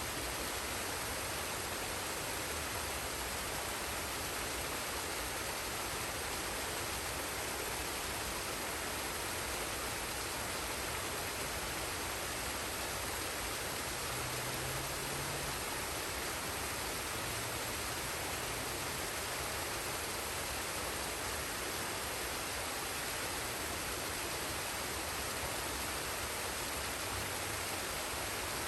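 Forest waterfall and stream: water falling and rushing in a steady, unbroken noise.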